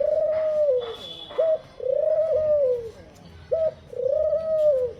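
A dove cooing: three long, low, arching coos, each falling away at the end, with a short clipped note between each pair.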